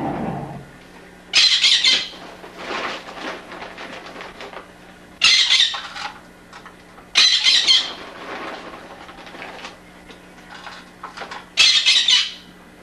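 Pet bird squawking: four loud, harsh shrieks of about half a second each, spread over the stretch, with softer sounds between them.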